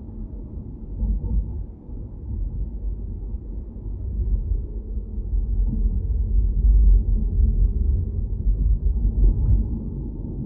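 Low rumble of a car on the move: road and engine noise, swelling a little in the middle.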